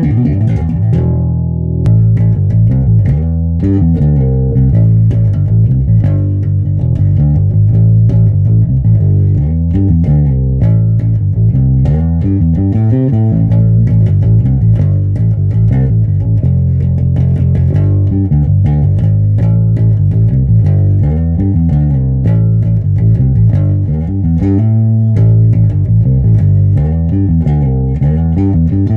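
Fender Precision Bass played solo through a Mesa Boogie Subway bass amp: a continuous run of quickly changing bass notes, with a short break a little past the middle.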